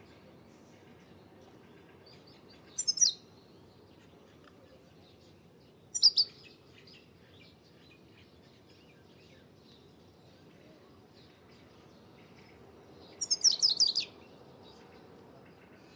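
A bird calling close by in three loud bursts of quick chirps, each falling in pitch, about three seconds in, at six seconds and near the end, the last burst the longest. Fainter chirping from other birds goes on between them.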